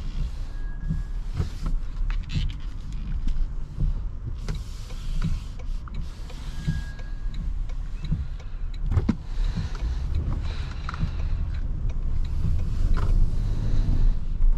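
Cabin noise of a 2023 Toyota Tundra driving in the rain: a steady low rumble from the hybrid V6 and wet tyres, with scattered taps and clicks, growing louder over the last few seconds.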